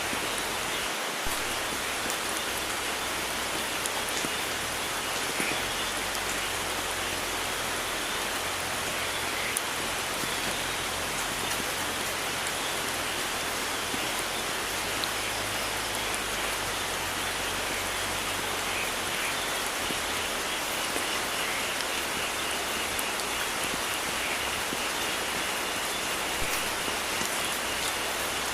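Steady heavy rain falling in a rainforest, an even hiss with a scatter of faint drop taps.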